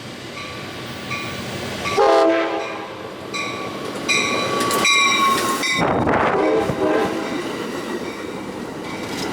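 Amtrak train horn sounding a multi-tone chord: a short blast about two seconds in, then a longer blast from about three and a half to six seconds. It is followed by the rumble and wheel clatter of the train passing through the station.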